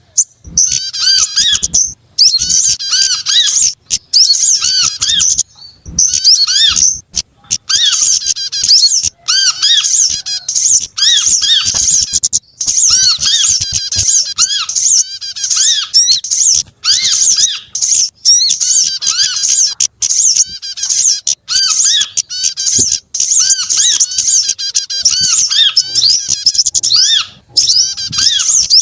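A bird-lure recording of mixed small songbird calls: fast, high twittering and chirping, with short arched notes repeated among them. The calls come in bursts of one to two seconds separated by brief pauses.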